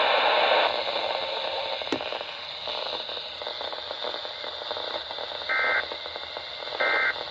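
NOAA Weather Radio receiver hissing with static, then sending the digital end-of-message bursts that close a warning broadcast: two short, buzzy two-tone data bursts a little over a second apart near the end.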